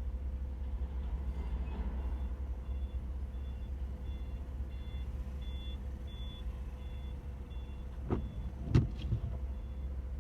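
Steady low rumble of a car's engine and tyres heard from inside the cabin in slow traffic, with faint high electronic beeps repeating about twice a second through most of it. Two sharp thumps near the end, the second the loudest sound.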